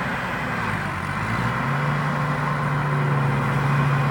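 Turbocharged Hino J2 diesel engine of a rice combine harvester running steadily; its low hum grows stronger and a little louder about one and a half seconds in.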